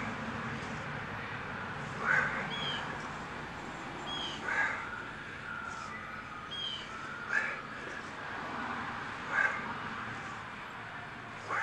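A bird calling outdoors: short calls repeated about every two to three seconds, with a few brief higher chirps between them over a steady background hiss.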